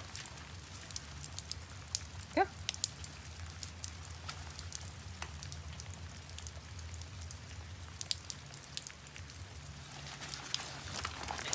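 A steady patter of short, scattered crackling clicks over a low hum.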